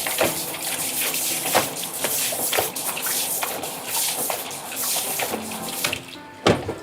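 Tap water running steadily, with small splashes and clicks, cutting off about six seconds in; a single sharp knock follows near the end.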